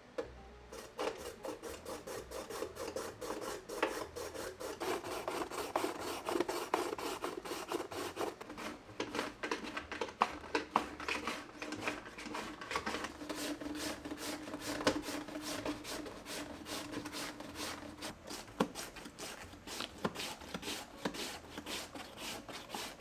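Raw potato being scraped with a hand-held blade tool in quick repeated rasping strokes, several a second, going on steadily.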